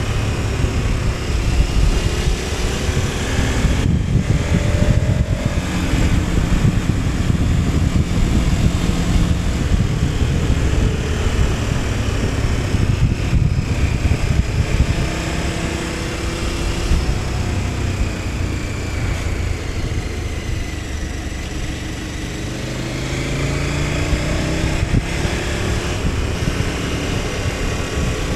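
KTM 1290 Super Adventure S's V-twin engine running under way, its revs rising and falling as it rides, with a few brief dips in the sound and wind rushing over the microphone.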